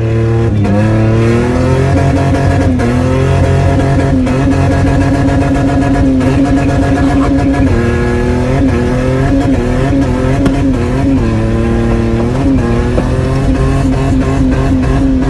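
Car engine driven hard at high revs. Its pitch climbs in the first couple of seconds, then holds and repeatedly dips and rises as the throttle is worked.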